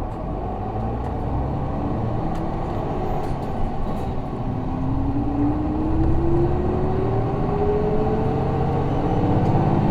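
Isuzu Erga city bus's 6HK1 inline-six diesel engine, heard from inside the cabin, pulling hard under acceleration. A whine rises steadily in pitch through the second half.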